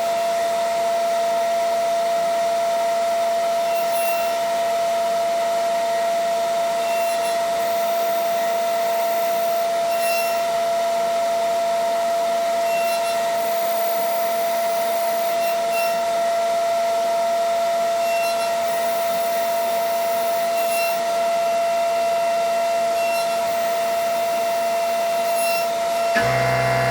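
CNC vertical machining center (DN Solutions SVM 4100) running a cut, a steady spindle whine over machine noise with faint regular ticks about every second and a half. Near the end the sound changes abruptly as a deep hum and a new set of tones come in.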